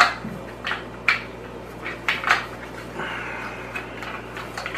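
Foam filter pads being pushed and rubbed into the plastic media basket of a SunSun 304B canister filter: a string of short scrapes and light plastic knocks, with a longer rubbing sound about three seconds in.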